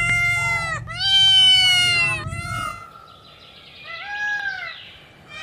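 An animal calling: two long, high-pitched, drawn-out calls back to back, then a shorter, fainter call about four seconds in.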